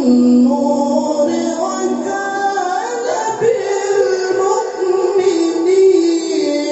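A male Quran reciter's voice chanting in long, ornamented held notes that glide from pitch to pitch, in the melodic tilawah style of Quran recitation.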